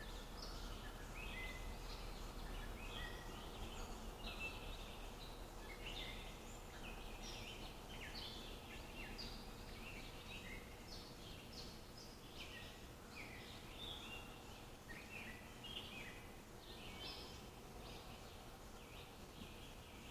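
Several small songbirds chirping and trilling almost continuously in quick overlapping calls, over a faint steady hum.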